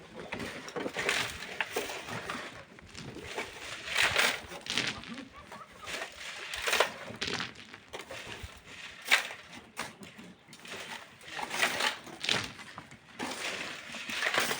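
Irregular gritty scrapes and crunches of sand and stone being dug and worked by hand with shovels, one every second or two.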